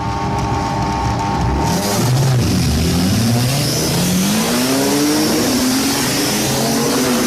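Racing car engine revving hard, its pitch dipping, climbing and falling again, with a loud rushing noise from about two seconds in.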